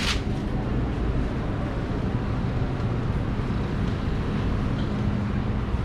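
Steady outdoor background noise, mostly a low rumble with a faint steady hum, and one short click right at the start.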